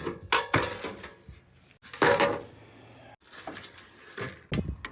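Metal tools and hardware being handled while a boat rail's bolts are taken out: a few knocks and a louder clank about two seconds in, then a rapid rattling near the end.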